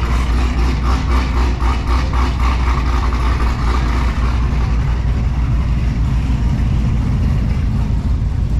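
Car engine running with a loud, steady low drone and a pulsing beat in its note for the first few seconds.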